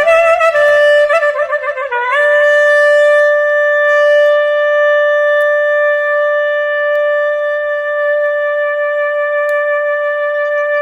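Clarinet playing a quick, ornamented phrase, then settling about two seconds in onto one long held note.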